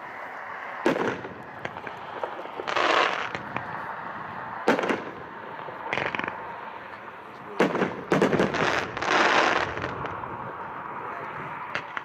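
Consumer 1.4G fireworks cake, the Benjamin Franklin cake, firing aerial shots. There are sharp bangs about a second in, near five seconds and in a quick cluster near eight seconds, and between them longer bursts of hissing, crackling noise of about half a second to a second each.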